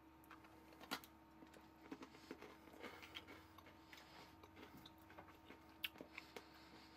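Near silence with faint chewing of a small sugar cookie: soft mouth noises and a few small clicks, the loudest about a second in, over a faint steady hum.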